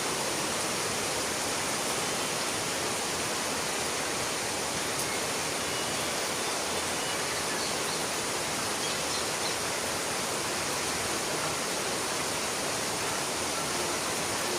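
Steady, even rushing noise that does not change, like flowing water or a waterfall.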